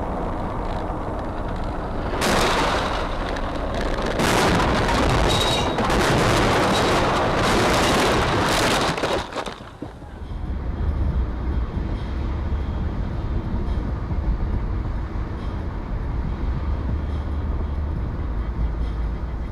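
Vehicle noise on a car recording: a loud rushing stretch from about two seconds in to nearly ten seconds, then a steady low rumble for the rest.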